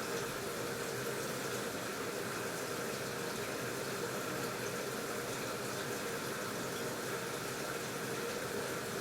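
AQUA washing machine filling its tub with water: a steady rush of incoming water with a faint steady hum underneath.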